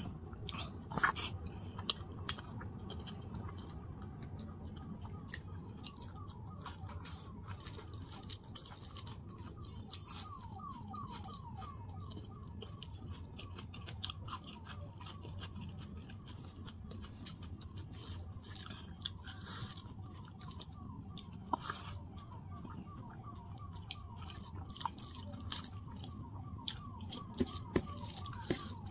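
Close-up mouth sounds of a person eating dal and rice by hand: chewing and smacking with scattered sharp clicks and crunches, including a bite into a raw red onion. A steady low hum runs underneath.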